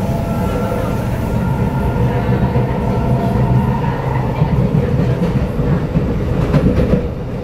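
Kawasaki Nippon Sharyo C751B train running along the track, heard from inside the car: a steady heavy rumble of wheels on rail with a steady whine of several tones over it, and a few clicks near the end as the wheels pass over rail joints.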